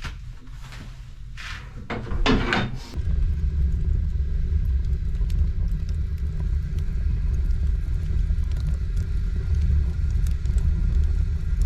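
After a brief noise about two seconds in, a car is driving with a steady low rumble of road and tyre noise, faint light clicks scattered through it.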